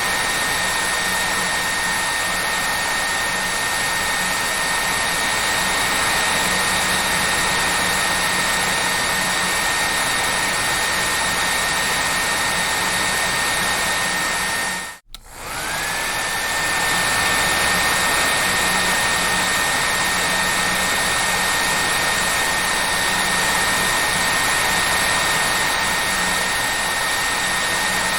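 Hair dryer running with a steady rushing blow and a high motor whine. About halfway through the sound cuts out for a moment, then the whine climbs back up to its pitch as the motor spins up again.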